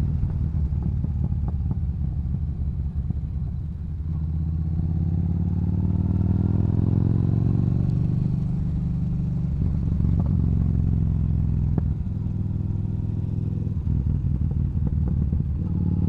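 Yamaha Bolt's air-cooled V-twin running through a Cobra aftermarket exhaust while riding. The engine note climbs as the bike accelerates a few seconds in, drops near the two-thirds mark and climbs again near the end.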